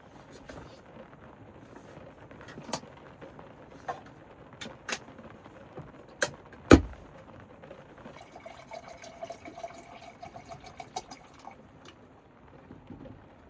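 Clicks and knocks of things being handled, the loudest a dull thump about seven seconds in, followed by about three seconds of liquid being poured.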